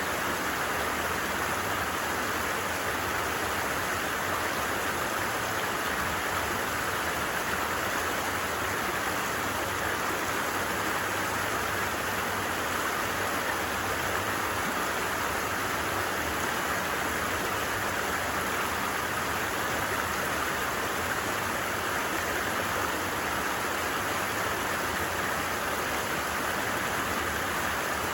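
Stream water flowing, a steady, even sound of running water.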